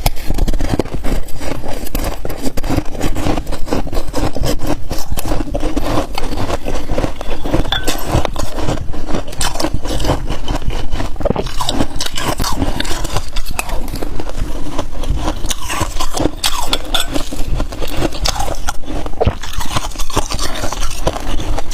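Freezer frost being scraped and crunched between the teeth, a dense run of close-up crackling and scraping.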